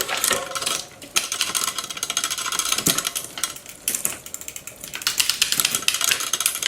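Road-bike shift lever clicking over and over as its internal ratchet is worked, freshly flooded with spray lubricant. The sticking pawl, which had stopped resetting, is starting to catch again.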